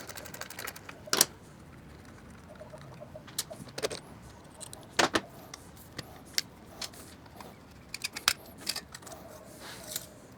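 Scattered metallic clinks and clicks of hand tools and loose bolt hardware as the muffler mounting nut and bolt are worked off, a dozen or so sharp ones at irregular intervals.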